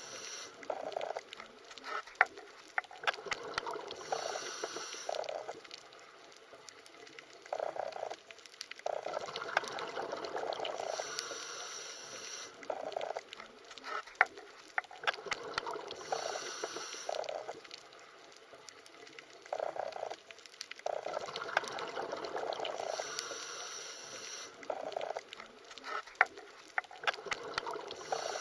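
Underwater ambience: water gurgling in swells that rise and fade every few seconds, with scattered sharp clicks.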